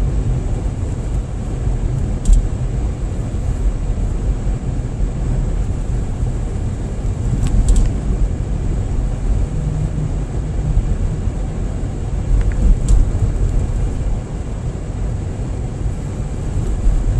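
Car driving, heard from inside the cabin: a steady low rumble of engine and tyre noise, with a few faint clicks.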